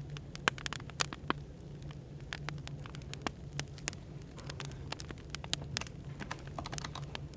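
Burning firewood crackling, with frequent irregular sharp pops, over a steady low hum of background noise.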